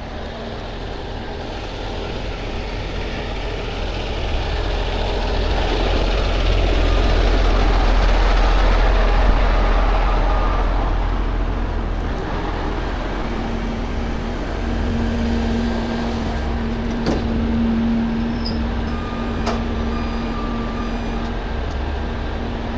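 Heavy truck engine running with a low rumble that swells about eight seconds in and then eases back. A steady low hum joins partway through, with a couple of sharp clicks and faint short beeps near the end.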